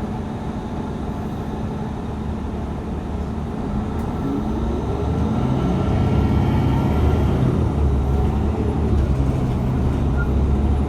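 City bus running with a low engine hum, picking up speed: the engine note rises and grows louder about four to six seconds in.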